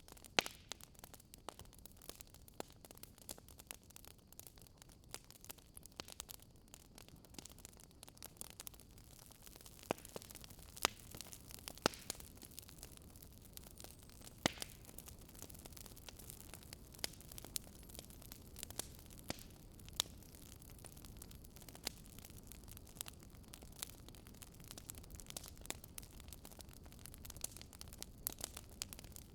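Wood fire crackling: irregular faint pops and snaps over a low, steady hiss.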